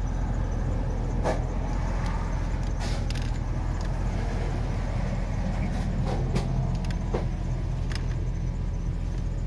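Car engine idling, heard from inside the cabin as a steady low hum, with a few light clicks and knocks scattered through it.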